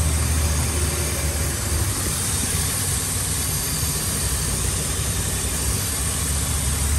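A 2002 Ford Explorer's 4.0L SOHC V6 idling steadily with the hood open, with a steady hiss over the low engine hum. The engine has a vacuum leak that is making both banks run lean (codes P0171 and P0174).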